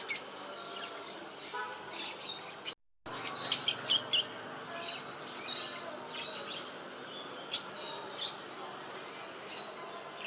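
Small cage birds chirping in quick, short, high calls, busiest at the start and again about three to four seconds in, then more scattered. The sound drops out for a moment just before three seconds in.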